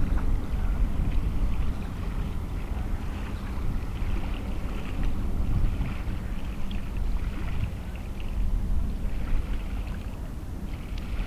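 Low, unsteady rumble of distant jet aircraft engines, mixed with wind buffeting the microphone.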